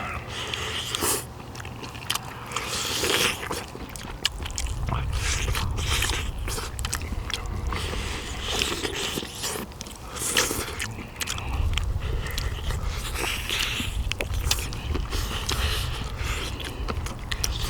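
Close-up eating sounds: chewing and gnawing the meat off pork bones from the soup, with many short irregular clicks and smacks.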